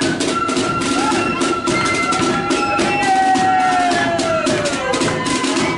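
Marching flute band playing, with flutes over rapid snare drum strokes and bass drum. About halfway through, one long high tone slides slowly downward.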